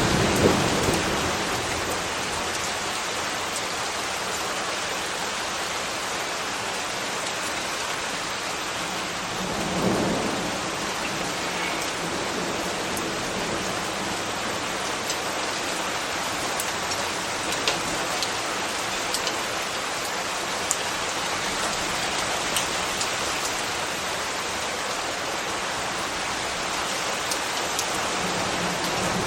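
Steady rain, with occasional louder drips ticking through it. A brief low swell comes at the very start and again about ten seconds in.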